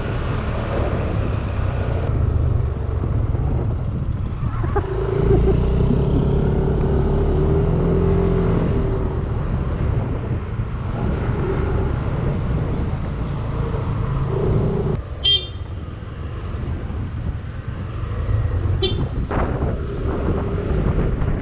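Yamaha Aerox 155 scooter's single-cylinder engine running under way, pulling harder for a few seconds about five seconds in. A vehicle horn gives two short toots in the second half.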